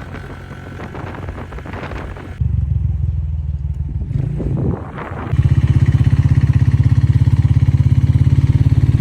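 Motorcycle engine running close by with a low, even pulse of firing strokes. It starts abruptly about two and a half seconds in, dips briefly, then comes back louder and steady about five seconds in.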